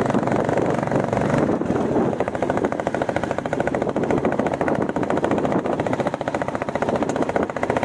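Royal Enfield Bullet 350 single-cylinder engine running under way, its exhaust beating in quick, even pulses.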